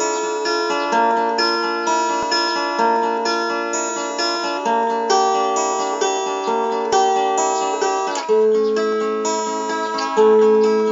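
Acoustic guitar playing an instrumental passage: a steady run of plucked notes and arpeggiated chords.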